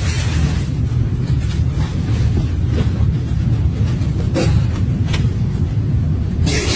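Loud, steady low rumble with a few faint clicks.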